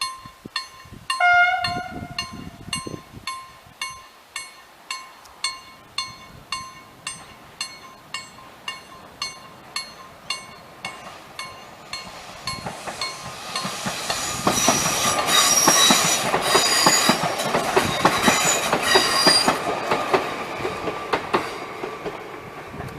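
KLD-4013 level-crossing bell ringing about twice a second, with a short train horn blast about a second in. From about 12 s a train passes over the crossing, loudest between about 14 and 20 s, with high squealing from the wheels over the running noise.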